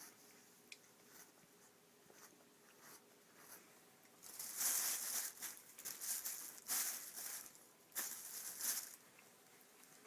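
Cats playing with toys on the floor. A few light clicks and taps come first, then from about four seconds in there are three louder bursts of rustling and scratching.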